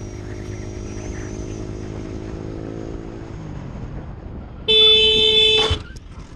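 Motorcycle engine running at a steady pitch, then dropping in pitch as the bike slows on engine braking. A vehicle horn then sounds loudly for about a second near the end.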